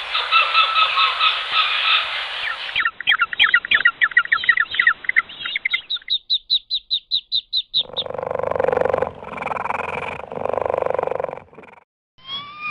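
A run of different animal calls edited back to back. First come fast, high chirps and trills. Then an even series of rapid high pulses, about six a second. Near the end are three longer, rougher calls of about a second each.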